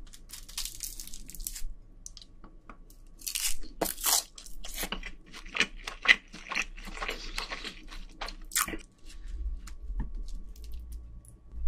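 Close-miked crunching and chewing of a mouthful of rice wrapped in crisp roasted seaweed (gim): a run of sharp crackly bites and chews.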